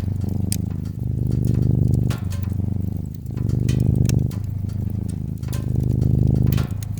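Domestic cat purring steadily, the purr swelling and easing with each breath about once a second, with a wood fire crackling in scattered sharp pops over it.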